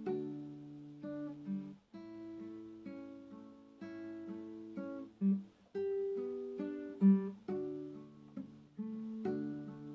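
Acoustic guitar played slowly, plucked notes and chords ringing and fading one after another.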